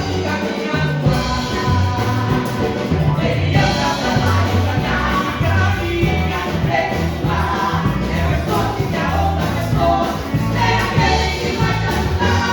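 Gospel song performed by two women singing over a band, with a steady pulsing bass and drums.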